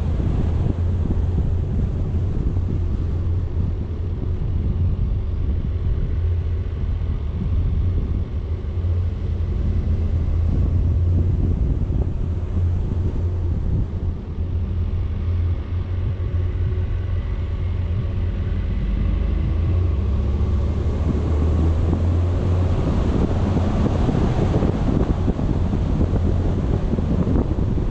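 Wind buffeting a vehicle-mounted action camera's microphone over the steady rumble of a vehicle driving, with a faint engine hum underneath.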